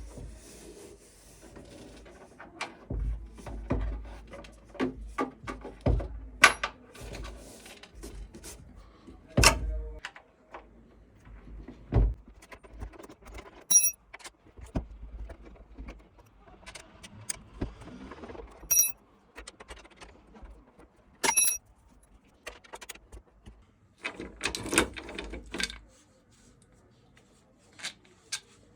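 Handling noises: irregular clicks, knocks and low thumps, with three short metallic rings like keys or small metal parts clinking.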